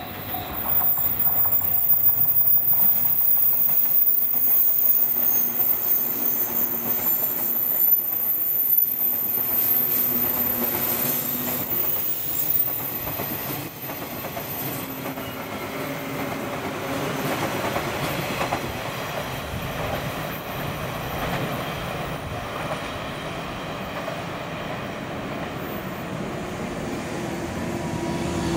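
A twelve-car JNR 185 series electric train passing on a curve, its wheels clattering over the rails with a thin, high squeal from the wheels on the curve. It is loudest for the first dozen seconds as the front cars go by, then runs lower and steadier as the rest of the train passes and draws away.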